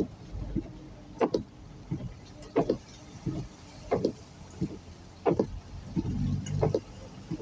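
Car windscreen wipers sweeping back and forth in drizzle, one stroke about every 0.7 s, the strokes one way louder than the other, over a steady low engine and road hum.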